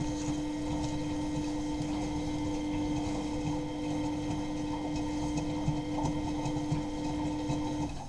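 Miele Novotronic W923 washing machine turning its drum during the wash: a steady motor hum over low tumbling and sloshing, with light irregular ticks. The hum stops just before the end, as the drum pauses before reversing.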